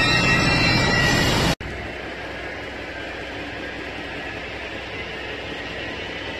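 Red double-deck electric regional train moving along the platform, a loud, dense running noise with faint steady whining tones, which cuts off abruptly about a second and a half in. After that there is only a steady, quieter hiss of background noise.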